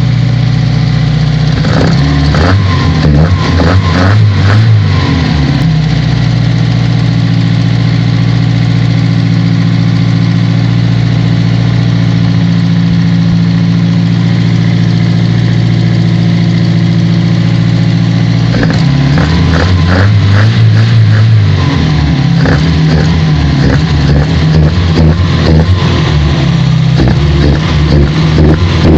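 Toyota 4A-GE four-cylinder engine on individual throttle bodies idling, blipped up and back down several times about two seconds in and again about nineteen seconds in, with a few smaller blips near the end.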